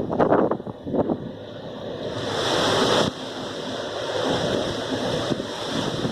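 Gusty wind buffeting the microphone, then a steady rushing hiss that grows brighter for about a second near the middle and drops off sharply.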